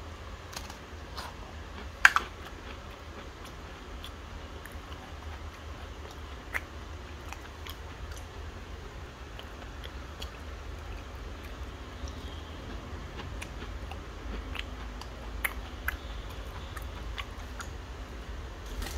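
Biscuit being bitten and chewed: a sharp crunch about two seconds in, then scattered small crunchy clicks, over a steady low hum.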